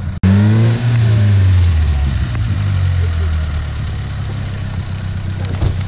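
Off-road vehicle engine revving hard after a brief cut in the sound, its revs falling away over about two seconds, then running steadily.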